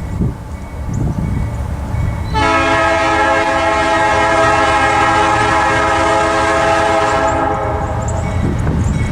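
Locomotive air horn sounding one long, steady blast of about five seconds that starts a couple of seconds in, over the low rumble of the train.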